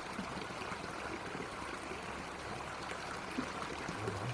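Stream water running steadily, with a faint tap about three seconds in.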